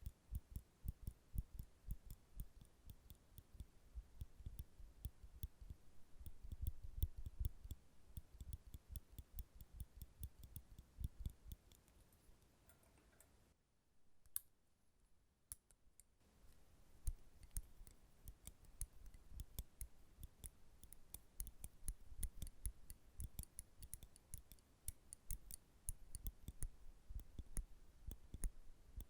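Nail clippers clicking and snapping in a rapid, uneven stream of small sharp clicks close to the microphone, with a pause of about two seconds midway.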